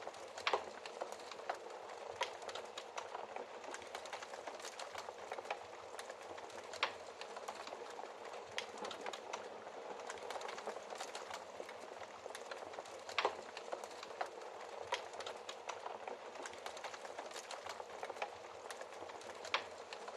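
Wood fire crackling in a fireplace: a steady hiss with frequent small crackles and a few louder pops from the burning wood.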